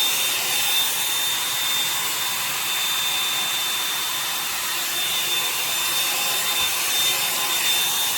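Revlon One-Step hair dryer brush running steadily, its fan blowing a constant rush of air with a thin high-pitched whine.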